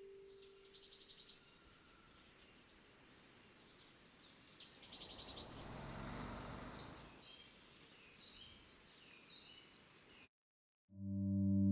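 Small birds chirping and trilling, faint, over a soft outdoor background, with a rushing swell in the middle that builds and fades over about two seconds. The sound cuts off shortly before the end, and a steady, many-pitched ringing tone then begins.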